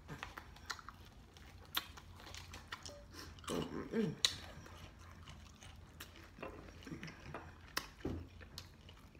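Close-up chewing and wet mouth clicks of a person eating a fried chicken wing, with scattered sharp smacks and two short low vocal sounds around the middle.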